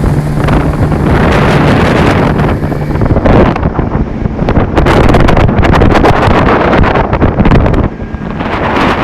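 Motorboat under way: its engine runs with a steady hum while heavy wind buffets the microphone. About three seconds in, the engine tone is swamped by gusting wind noise.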